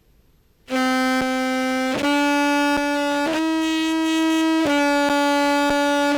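Amplified contrabass clarinet played through a compressor and fuzz pedal chain. It comes in under a second in with four long held notes, each changing pitch cleanly, stepping up and then slightly back down. Faint even ticks sound about twice a second underneath.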